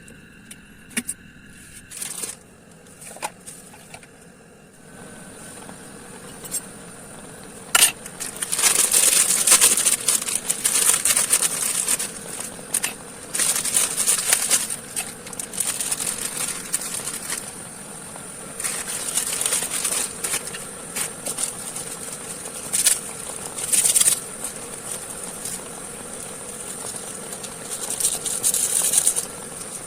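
Tarp crinkling and rustling in repeated bursts of a second or two, over a steady hiss of rain, with a few sharp clicks in the first few seconds.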